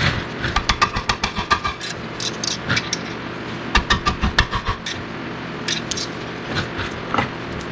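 Quick runs of metallic clicks and clinks from hand tools at the brake caliper: one about half a second in and another about four seconds in, with single knocks between them, over a steady low hum.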